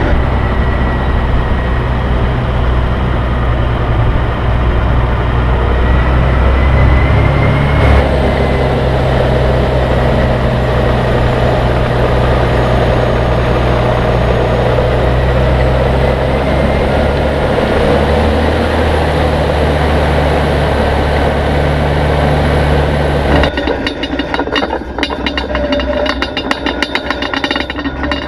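An engine running steadily with a low drone. About 23 seconds in it gives way to a rapid clatter of clicks.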